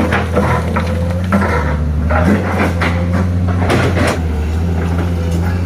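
Heavy dump truck's diesel engine running steadily at low revs, with irregular knocks, creaks and rattles from the truck as it works over the rough road.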